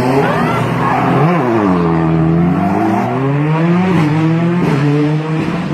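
Competition car engine revving hard. Its pitch climbs to a sharp peak about a second in and falls away, then climbs again near four seconds and drops back.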